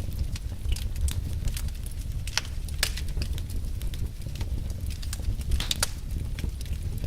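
Wood logs burning, crackling with irregular sharp snaps and pops over a steady low rumble; a few louder pops stand out about two and a half seconds in and near the middle of the second half.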